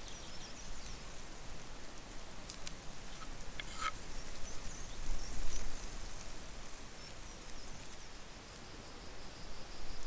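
Outdoor nature ambience with faint high chirping from small animals. A few sharp clicks come about two and a half and four seconds in.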